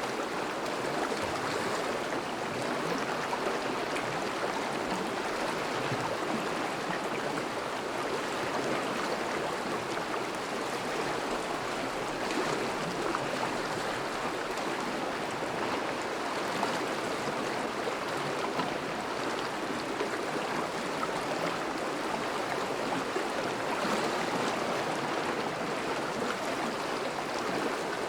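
A thawing river running over shallows, a steady rushing babble of moving water.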